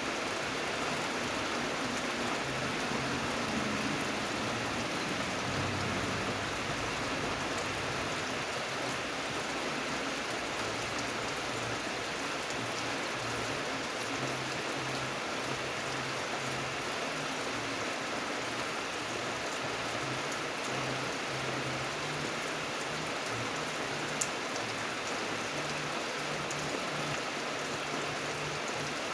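Steady rain falling, an even hiss of drops with no letup. There is one sharp tick about five-sixths of the way through.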